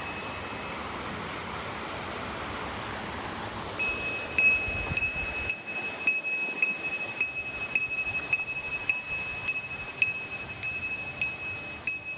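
Small bell, such as a hiker's bear bell, ringing in an even rhythm a bit under twice a second, the pace of walking steps. It is silent for the first few seconds, then starts again at about four seconds in.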